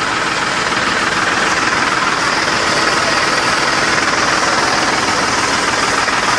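Tractor engine running steadily at constant speed, an even mechanical noise that does not change.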